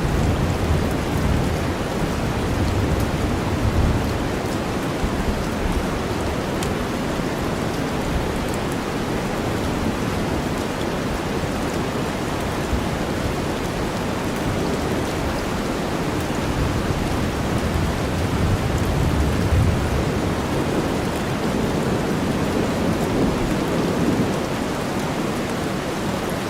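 Steady rain mixed with deep white noise, with low thunder rumbling that swells near the start and again a little past the middle.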